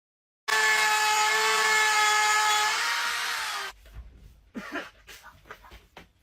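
A power tool's electric motor running with a steady high whine for about three seconds, its pitch sagging slightly before it cuts off, followed by a few faint knocks.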